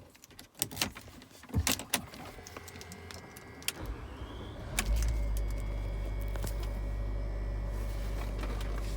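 A few clicks and key handling, then the Range Rover's 3.6-litre TDV8 diesel engine starts about four seconds in and settles into a steady idle.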